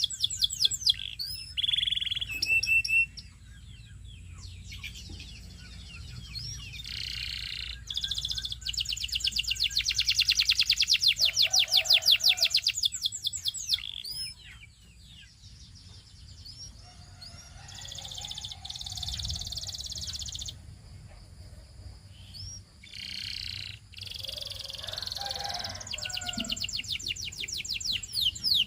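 Domestic canary singing in phrases of fast trills, each a rapid run of repeated rising notes, broken by short pauses and softer twittering.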